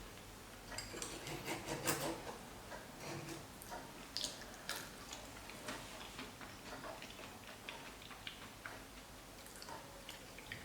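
Scattered, irregular light clicks and taps, with a louder cluster about two seconds in.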